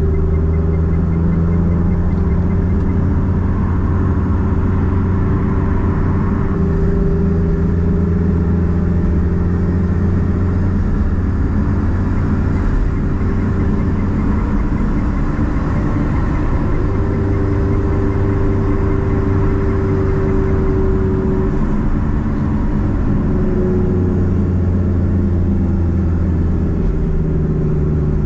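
Nissan Platina (Renault Clio sedan) engine running through a straight-pipe exhaust while driving, a steady low drone whose pitch drops and rises a few times as the revs change.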